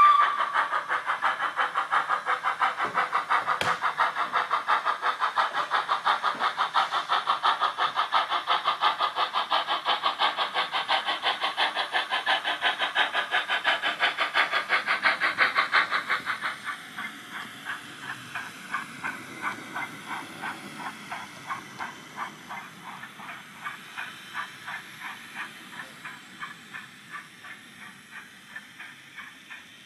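Sound decoder of a Rapido OO gauge Hunslet 16in 0-6-0 saddle tank model playing rapid steam exhaust chuffs through its small speaker as it runs. The chuffs are loud for the first half, then drop suddenly to a softer, still regular beat.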